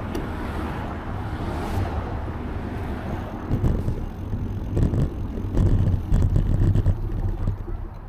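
Wind buffeting the microphone of a camera riding along on a moving bicycle: a gusty low rumble that swells several times.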